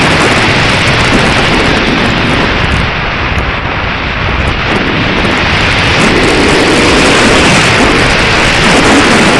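Strong wind buffeting the microphone: loud, steady rushing noise that eases a little a few seconds in, then picks up again.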